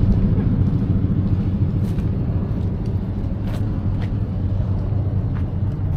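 Engine running steadily with a low rumble, a few faint ticks over it.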